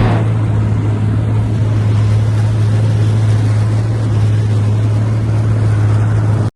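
A steady low drone under an even rushing noise, with no melody, which cuts off suddenly near the end.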